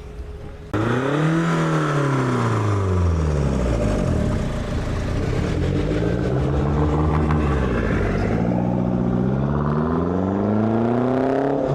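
A car engine revving, starting abruptly about a second in. Its pitch climbs briefly, falls away and holds low for a few seconds, then rises slowly again toward the end.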